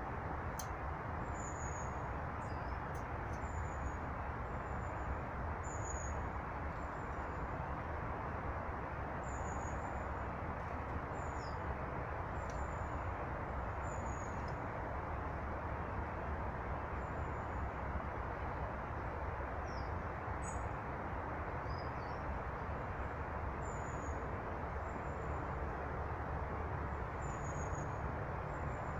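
Small birds at a feeder giving short, thin, high-pitched calls every second or two, some falling slightly in pitch. Under them runs a steady rushing background noise.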